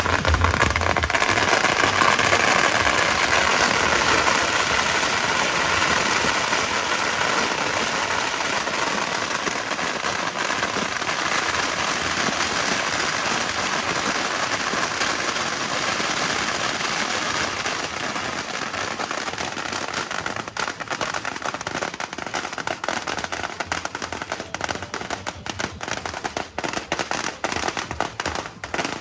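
Strings of firecrackers going off in a dense, continuous crackle, which thins into separate rapid bangs over the last several seconds.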